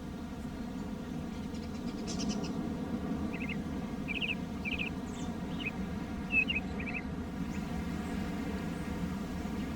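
A small bird chirping in short calls for a few seconds, over a steady low outdoor background noise.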